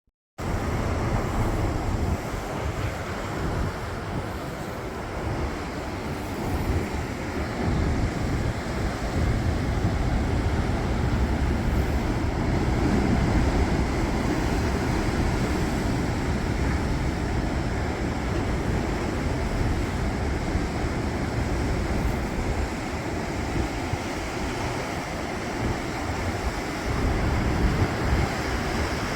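Pacific Ocean surf at high tide surging and churning through a narrow rocky inlet, a continuous rushing that swells and eases, with wind buffeting the microphone.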